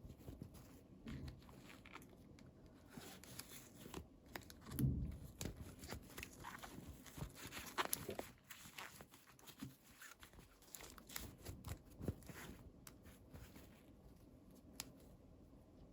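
Faint, irregular handling noises: small clicks, taps and rustles of hands working with small plastic toys and their packaging, with one duller thump about five seconds in.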